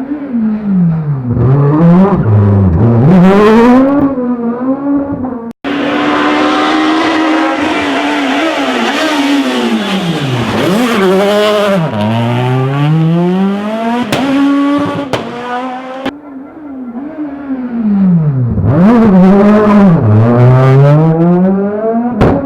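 Rally cars at full speed, engines revving hard, the pitch climbing and dropping sharply again and again through gear changes and lifts. The sound breaks off suddenly twice, each time giving way straight away to another run.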